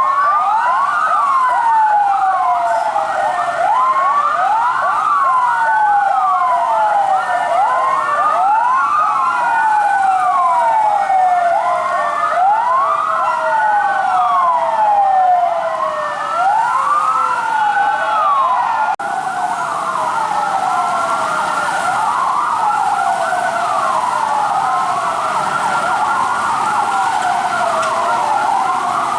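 Several fire truck sirens wailing at once, their rising and falling sweeps overlapping out of step. About two-thirds of the way through the pattern changes suddenly to quicker, more tangled sweeps.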